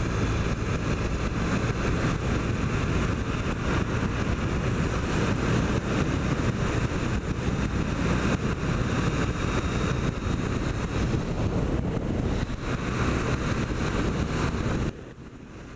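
2008 Triumph Bonneville's parallel-twin engine running on the move, under a steady rush of wind noise. The sound drops away suddenly near the end.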